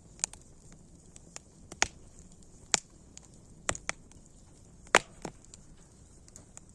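Campfire crackling: wood snapping and popping at irregular moments over a faint hiss, the loudest pop about five seconds in.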